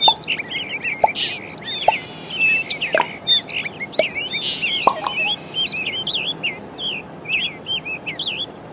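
Many small birds chirping and twittering, lots of short quick calls overlapping, thinning out somewhat in the last few seconds.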